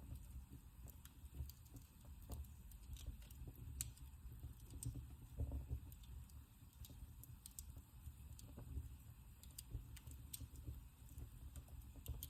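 Wood fire crackling in a fireplace: irregular sharp pops and snaps, a few a second, over a faint low rumble of the flames.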